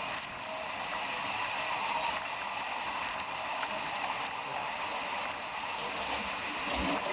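MEMU electric multiple-unit train running: a steady rushing noise with faint steady tones over it.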